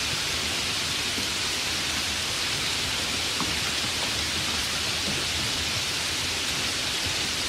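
Steady rainfall: an even hiss with a few separate drops ticking through it.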